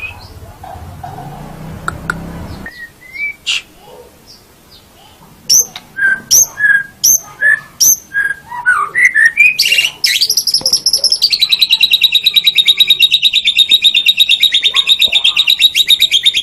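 White-rumped shama (murai batu) singing: a few whistled notes, then a run of loud, sharp notes about two a second, then from about ten seconds in a fast, steady rattling trill.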